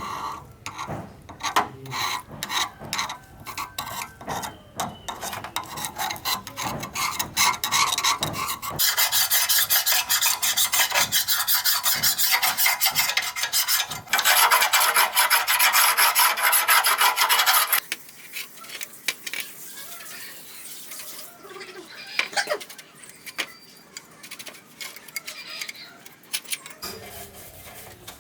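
Abrasive hand scraping of rusty bicycle metal, as when rust is rubbed or filed off. It starts as irregular strokes, runs as a loud, fast, continuous scrubbing through the middle, and falls back to quieter, scattered scrapes in the last ten seconds.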